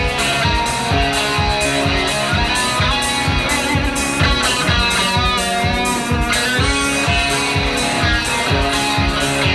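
Rock band playing live: strummed electric guitar and bass over a steady drum beat of about four strokes a second, with no singing.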